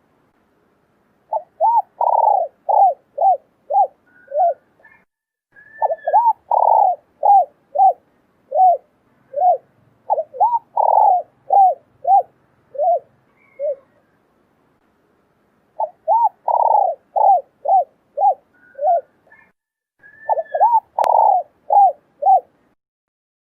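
Female spotted dove cooing in quick runs of short coos, about two to three a second, in four bouts with brief pauses between them.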